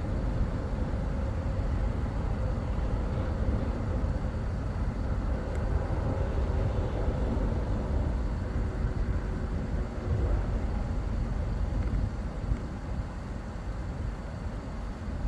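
Steady road and engine noise from a moving vehicle, heard from inside the cab: a continuous low rumble with a faint steady drone.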